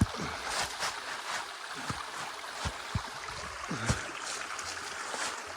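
A shallow creek running and trickling over bedrock, with boots splashing and knocking through the water in several separate steps; the sharpest comes at the start and another about four seconds in.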